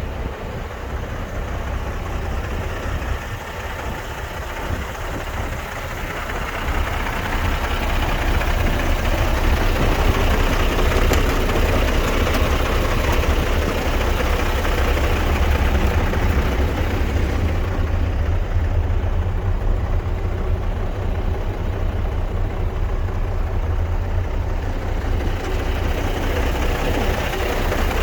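MAN 26.362 6x4 tipper truck's diesel engine running steadily, growing louder about seven seconds in and then holding.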